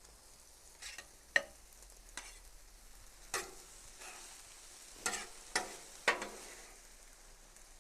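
Metal spatula scraping and clinking on a flat-top griddle as food is lifted off to serve, about seven sharp clinks over a faint steady sizzle.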